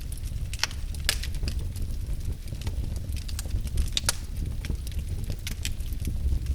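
Wood fire burning in a fireplace: irregular crackles and sharp pops over a steady low rumble of flames, with louder pops about a second in and about four seconds in.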